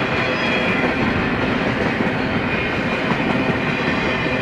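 Double-stack intermodal freight cars of a BNSF train rolling past: a steady noise of steel wheels running on the rails.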